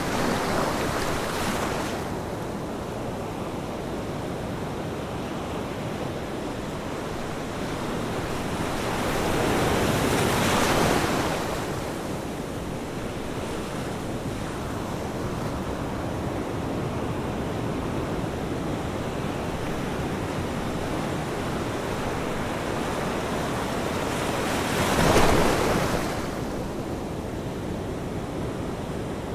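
Ocean surf: a steady wash of water noise, with three waves swelling and breaking louder, one at the start, a longer one near the middle and a short, sharp one near the end.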